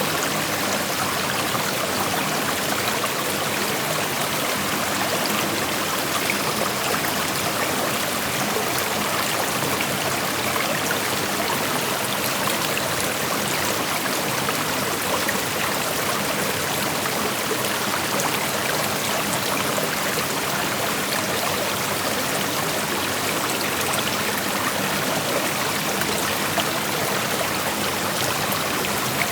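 Shallow creek water flowing and rushing over rocks in a steady, even wash of noise, with no breaks or changes.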